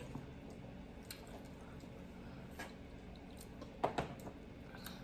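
Soft, wet eating sounds: quiet chewing and lip smacks, with two sharper smacks close together about four seconds in.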